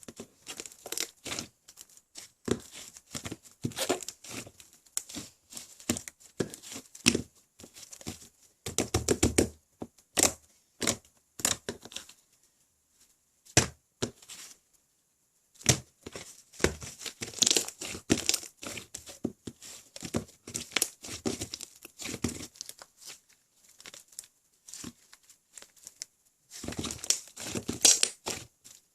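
Slime mixed with clay being stretched, pressed and squeezed by hand: runs of sticky crackling and popping clicks, with two short pauses near the middle.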